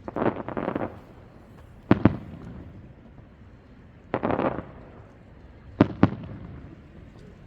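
Fireworks shells bursting overhead. Sharp bangs come in pairs about two seconds and six seconds in, and bursts of crackle come near the start and a little past four seconds.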